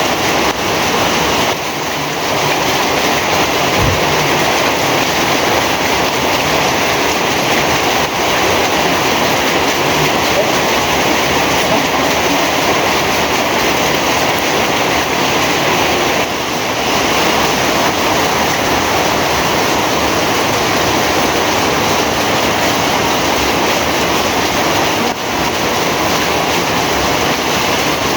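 Heavy rain falling steadily, a dense even wash of noise, with a few brief dips in loudness.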